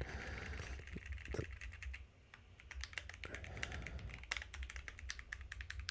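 Typing on a Lemokey L1 mechanical keyboard with Gateron Brown tactile switches: a quick run of key clicks that pauses briefly about two seconds in, then carries on.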